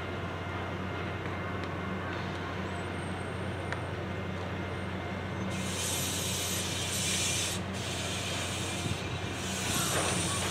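Electric freight locomotive hauling loaded hopper wagons, rolling slowly into the station with a steady low hum. About five and a half seconds in, a loud hiss from the train's brakes sets in and runs on with two short breaks.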